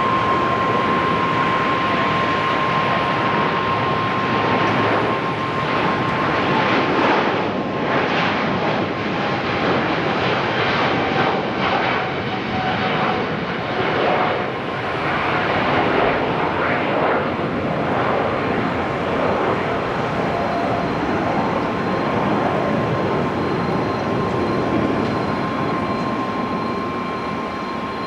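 Jet airliner's engines: a loud, even rush with a steady high whine through it, easing slightly near the end.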